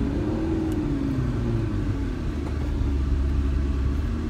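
McLaren MP4-12C's twin-turbo V8 engine running as the car drives, with road rumble. The engine note falls in pitch over the first two seconds as the car eases off, then settles into a steady low drone.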